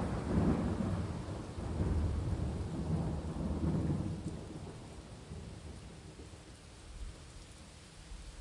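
Rolling thunder rumbling low over steady rain, dying away about halfway through and leaving the hiss of the rain.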